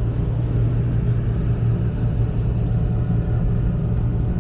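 Heavy machine's diesel engine running steadily, a constant low drone with no change in speed.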